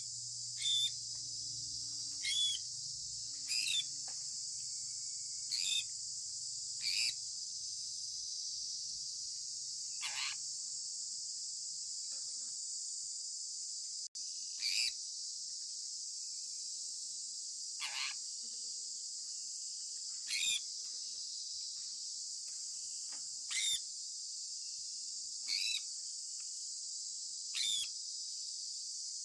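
Sun conure parrot giving short, sharp chirps, about a dozen spaced one to three seconds apart, over a steady high hiss.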